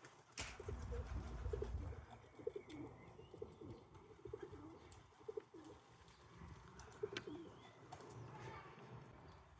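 Pigeons cooing at a feeder, a string of short low coos, with a few sharp taps and a low rumble in the first couple of seconds.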